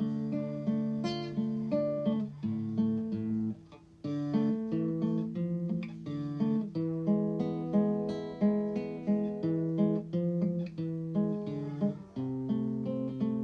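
Background music of plucked and strummed acoustic guitar, a steady run of notes with a brief drop-out about four seconds in.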